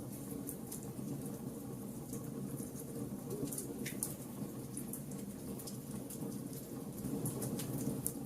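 Wood fire burning: a steady low rush of flames with scattered sharp crackles and pops of the burning wood, one louder pop about four seconds in.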